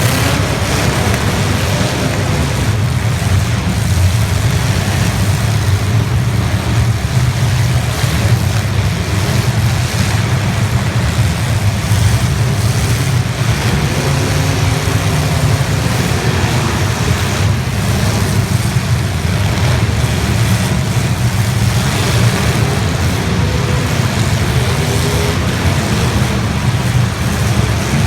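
The engines of several 1980s stock demolition derby cars running together in a loud, steady rumble, with engines now and then revving up and down.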